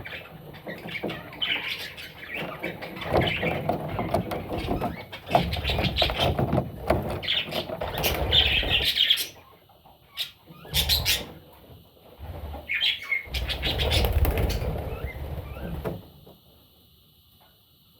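Budgerigar chicks chirping and flapping their wings in bursts, with scuffling noise, falling quiet about two seconds before the end.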